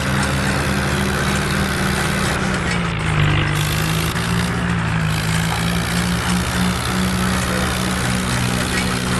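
Swaraj 855 tractor's three-cylinder diesel engine running steadily, its note dipping briefly about three seconds in and then picking up again.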